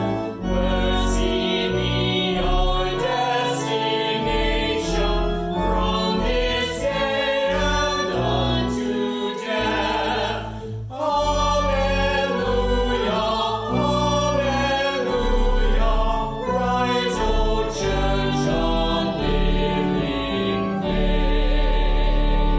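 A hymn sung by a choir with instrumental accompaniment and a deep sustained bass, moving chord by chord and ending on a long held chord near the end.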